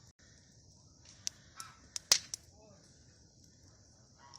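Bonfire of pruned garden branches crackling, with a few sharp pops, the loudest about two seconds in, over a steady high hiss.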